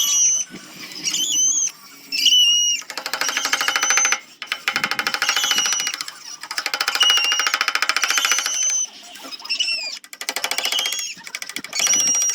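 Handheld power grinding tool working a zelkova root stand, in spells of rapid chattering a second or two long with short high whines between them.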